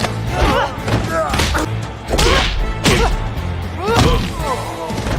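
Animated fight-scene sound effects: a run of punch-like thuds, with short voiced grunts or shouts between them, over dramatic score music.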